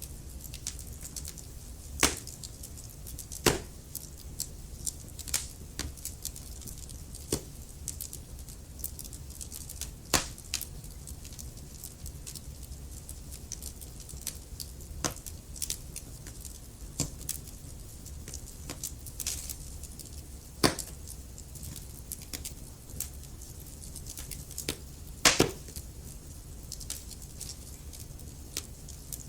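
Wood fire burning in a fireplace: a steady low rumble of the flames with irregular crackles and sharp pops, a few louder snaps standing out.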